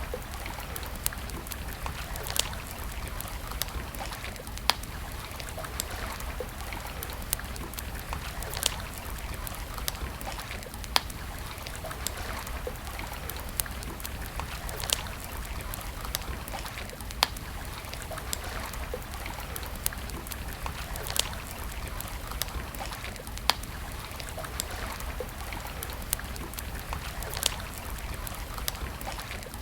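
Wood campfire crackling, with sharp pops about every two seconds and many fainter ticks, over a steady rushing background of flowing water.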